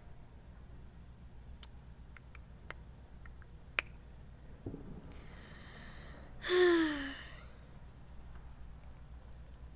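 A person's breathy exhale ending in a short voiced sigh that falls in pitch, the loudest sound, preceded by a few faint sharp clicks.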